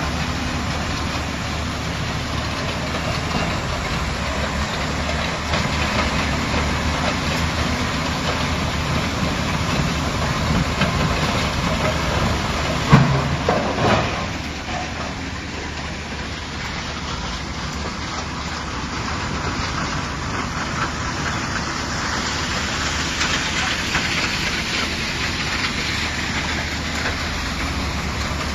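Mobile impact crusher running, a steady heavy machinery din. About halfway through there is one sharp loud knock with about a second of rattling after it.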